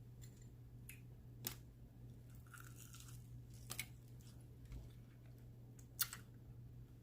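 Close-up eating sounds: crunchy bites and chewing of Flamin' Hot Cheeto-crusted fried chicken wings, with sharp crunches about one and a half, three and a half and six seconds in, the last the loudest. A low steady hum runs underneath.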